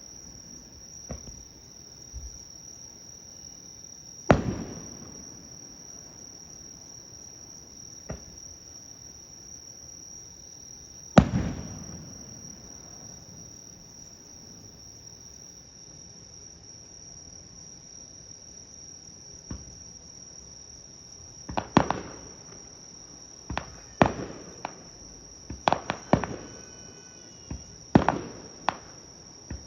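Aerial firework shells bursting, each a sharp bang with an echoing tail: a few scattered bursts, two big ones several seconds apart, then a quicker run of bursts in the last third. A steady high insect trill runs underneath.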